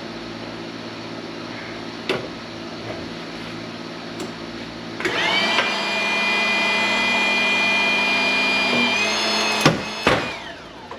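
Hydraulic press whining steadily under load while crushing a transformer, its pitch edging up until the core breaks with two sharp, loud cracks near the end. The whine then falls away.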